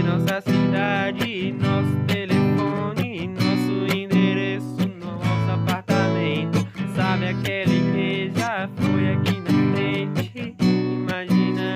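Acoustic guitar strummed in a steady rhythm, playing a song, with a wavering melody line over the chords.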